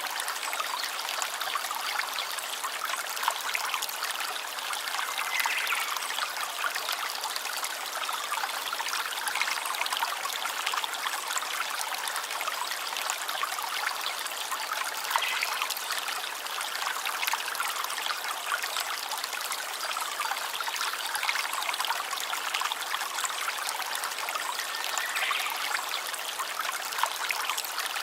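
Small stream of running water trickling steadily.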